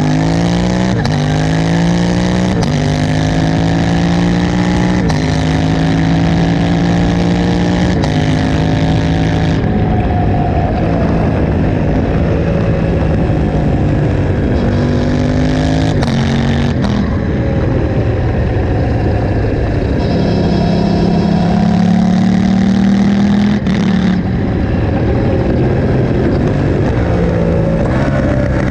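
Aprilia RS660's parallel-twin engine through a Mivv Delta Race exhaust with no catalytic converter and the dB killer fitted. It pulls up through the gears, the revs climbing and dropping back at each of about four upshifts, then rises and falls with the throttle.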